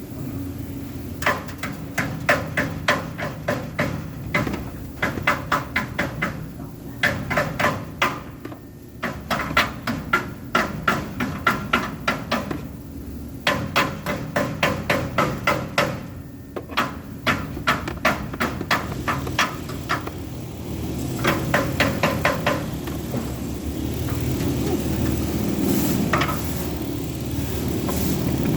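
Metal being struck with a hammer in quick runs of blows, about three or four a second, with short pauses between runs, over a steady low engine rumble that grows louder near the end.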